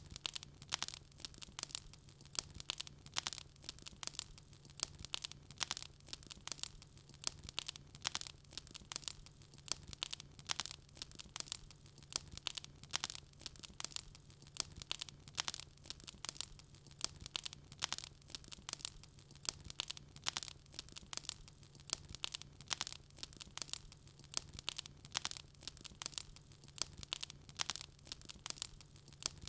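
Wood fire burning in a fireplace, crackling with a steady stream of sharp pops, several a second, over a faint steady low hum.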